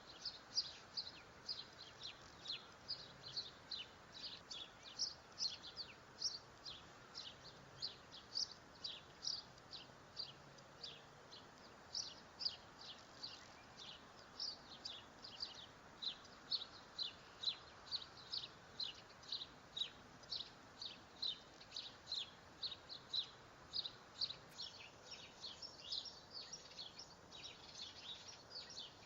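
Dark-eyed junco giving a long run of short, high chirps, about two or three a second, some louder than others.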